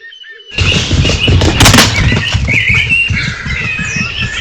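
Small birds chirping and singing over a loud rustling, buffeting noise that starts about half a second in, with a sharp knock in the middle.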